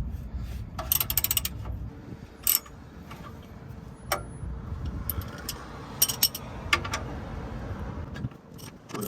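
Socket ratchet and tools working an oil drain plug: a quick run of ratchet clicks about a second in, then scattered single metallic clicks, over a low steady rumble.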